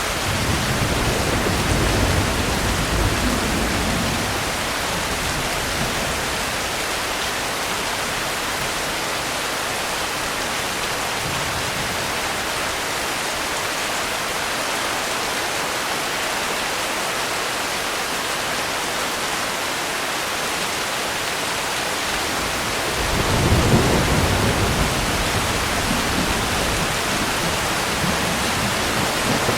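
Steady rain falling, with low rolls of thunder: one in the first few seconds and a louder one about three-quarters of the way through.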